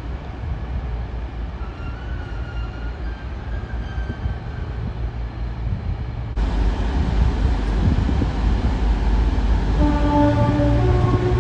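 A train running at a railway station, with a steady low rumble. Partway through, an abrupt edit switches to a louder, closer train sound. A few short pitched tones come in near the end.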